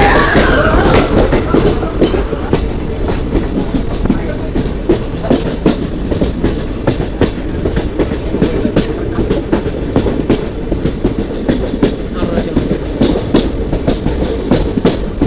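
Moving passenger train running along the track, its wheels clattering over the rail joints in a steady stream of clicks over a constant rumble.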